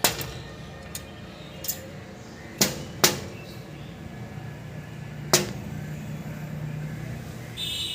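Woodpecker pecking: about six sharp single knocks at uneven intervals, some with a short ringing tail, the loudest about three seconds in. A high steady tone starts near the end.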